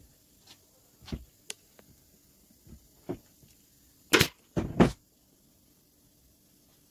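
A few scattered light knocks and clicks, then three loud thumps in quick succession about four seconds in.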